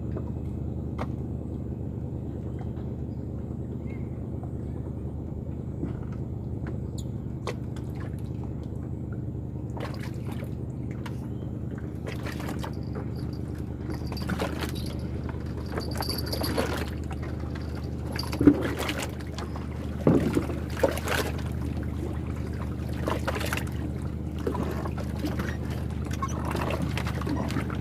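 An engine runs steadily with a low hum. From about a third of the way in, water splashes and trickles come and go, with the loudest splashes a little past the middle.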